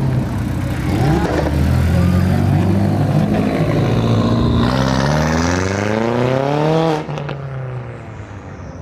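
A car engine revving: a few uneven blips, then a steady climb in pitch over about two seconds that cuts off sharply about seven seconds in.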